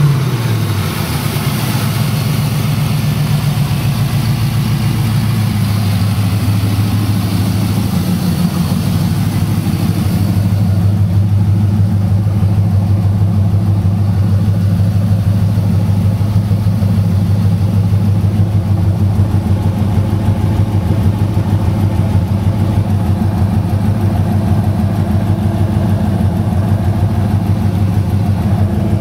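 LS6 5.7-litre V8 in a 1999 Camaro Z28 dropping back from a rev right at the start, then idling steadily. A high hiss runs alongside and stops about ten seconds in.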